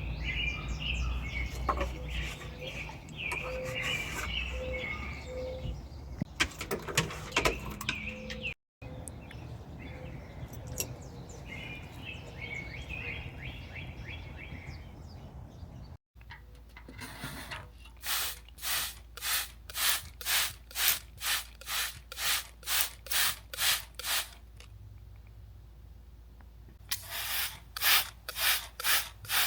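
Small birds chirping and singing in the backyard. After a cut, regular rubbing strokes, about two a second, start about halfway through, pause for a few seconds, then resume near the end.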